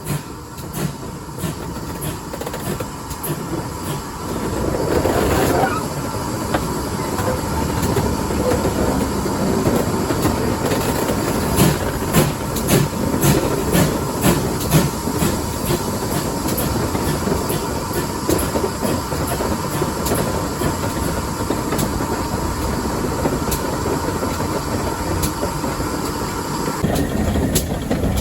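Heritage steam railway train running along the track: a steady rumble with repeated clicks of the wheels over rail joints, getting louder about five seconds in.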